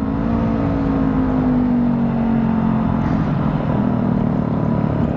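Motorcycle engine running at steady cruising revs, its pitch easing slightly down over the first couple of seconds, under steady wind and road noise.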